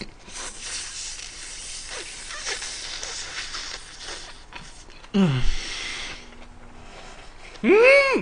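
Mouth-full chewing of a big leafy vegetable wrap stuffed with Korean beef bulgogi (kale, perilla and mustard leaves), a soft wet crunching. About five seconds in comes a short hum falling steeply in pitch, and near the end a loud rising-and-falling 'mmm' of relish through the full mouth.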